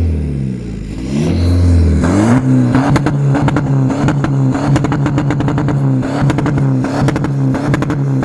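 A car engine being revved: the revs dip and then sweep up about a second in, and it is then held at a steady high rpm with a rapid crackle of clicks over it.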